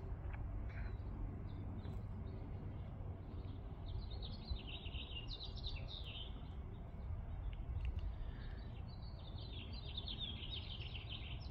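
A small songbird twittering in two runs of quick, high chirps, one about four seconds in and another near the end, over a steady low rumble.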